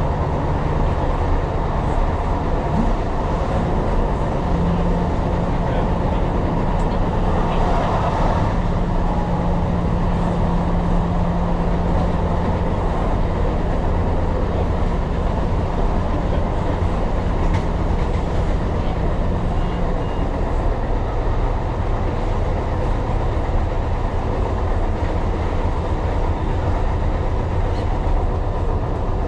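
Tyne & Wear Metro train running along the track: a steady rumble of wheels and running gear, with a steady hum that comes in about five seconds in and fades out about twenty seconds in.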